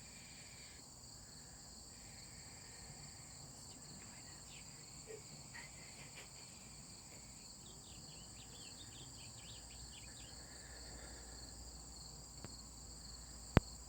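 Steady high-pitched chorus of crickets or similar insects, with a few faint short chirps in the middle and one sharp click near the end.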